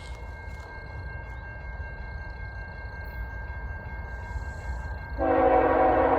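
Low rumble of an approaching freight train. About five seconds in, a CSX locomotive's air horn starts sounding, loud and held as a multi-note chord.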